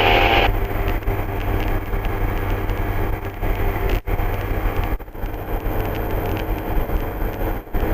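MD3 Rider ultralight's piston engine and propeller running steadily in cruise, heard inside the cockpit as a constant drone. A hiss cuts off about half a second in, and the sound drops out briefly twice.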